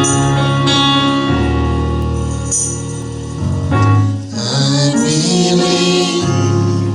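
Gospel music from a church band: sustained organ or keyboard chords over a deep bass line, with a bright shimmer of percussion.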